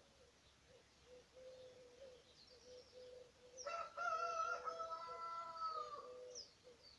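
A rooster crows once, a drawn-out crow of about two and a half seconds starting about halfway through. Under it run low repeated bird calls and a few faint high chirps.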